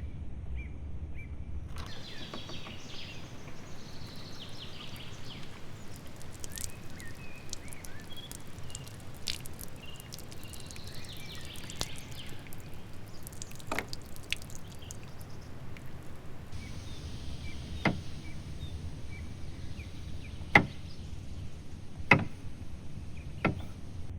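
Outdoor ambience with small bird chirps in the first half, then a few sharp knocks, two of them loud, in the last few seconds.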